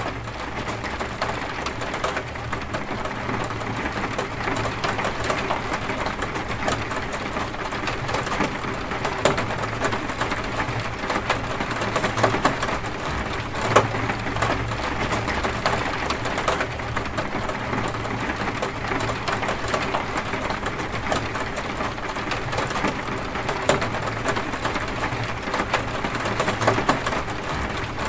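Heavy rain on a window, a dense, steady hiss of countless drops tapping the glass, with a low steady rumble underneath.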